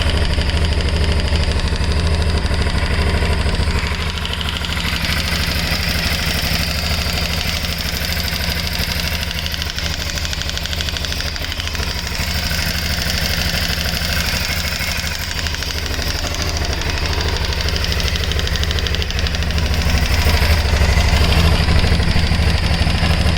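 Aprilia Shiver 750's V-twin engine running at about idle with a rattling noise in it. It grows a little louder about 20 seconds in.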